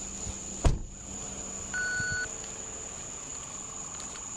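A sharp click, then about a second later a single steady electronic beep lasting about half a second, over a constant faint high whine.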